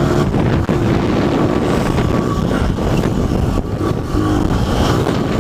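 Dirt bike engine running hard under the rider, its revs dropping and climbing again as the bike jumps and is downshifted, with wind buffeting the microphone.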